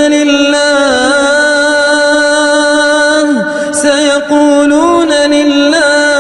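Solo male voice chanting Qur'anic recitation in the melodic tajweed style, holding a long drawn-out note on a steady pitch. The pitch dips briefly about three and a half seconds in, then resumes with a small ornamental rise near the end.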